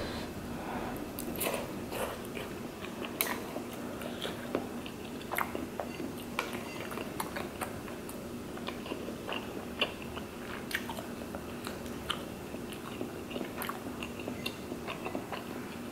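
Close-up mouth sounds of chewing and biting chewy tteokbokki rice cakes in sauce, with many scattered sharp clicks of metal chopsticks against a stainless steel pan. A faint steady low hum runs underneath.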